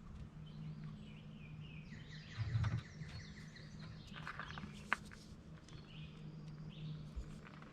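Birds chirping now and then over a low steady hum, with a dull thump about two and a half seconds in and a sharp click about five seconds in.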